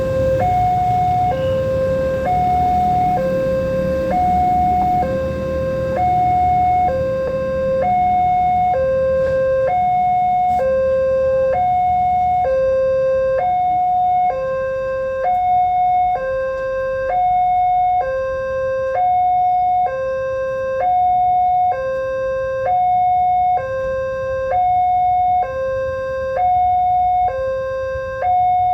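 Indonesian railway level-crossing warning alarm sounding its two-tone electronic chime, high and low notes alternating about once a second without a break. A low rumble of traffic runs under it for the first several seconds.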